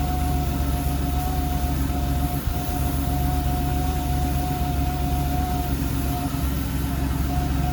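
Ford Ranger pickup idling, heard from inside the cab with the heater on: a steady low engine hum with a constant whine over it.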